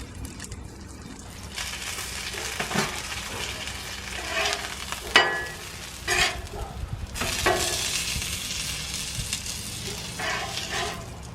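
Chicken frying in hot oil on a Blackstone flat-top griddle, a steady sizzle that swells in stretches, with several short clinks and scrapes along the way.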